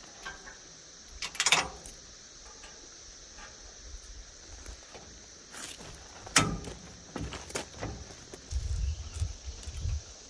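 A few sharp metal clanks and clicks as a camper is unhooked from a truck's hitch, with low bumping near the end. A steady high-pitched insect drone runs underneath.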